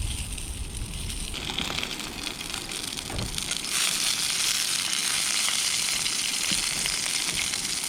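Sausages, square sausage and black pudding sizzling as they fry in a pan, a steady hissing that grows louder about four seconds in.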